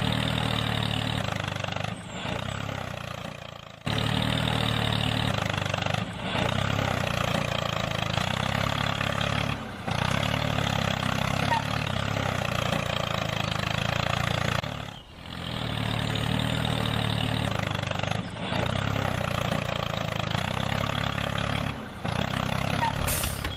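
Tractor engine running steadily with a low, even throb, broken by short dropouts every few seconds.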